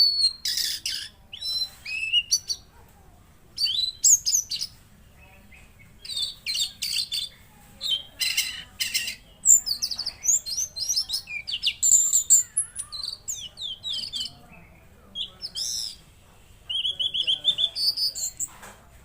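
Tledekan laut songbird singing hard: quick bursts of high chirps, sweeping whistles and trills, phrase after phrase with short pauses between, ending in a rapid run of repeated notes.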